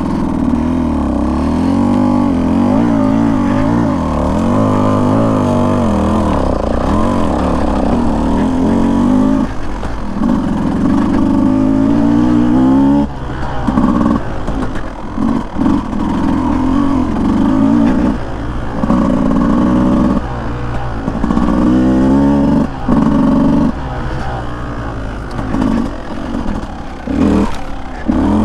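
Beta 200 two-stroke dirt bike engine being ridden, its pitch wavering up and down with the throttle. From about halfway through the throttle is opened and closed in short bursts every second or two.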